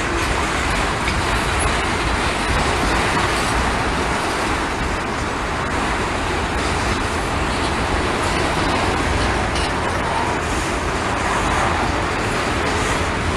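Steady, loud rumble of passing vehicles.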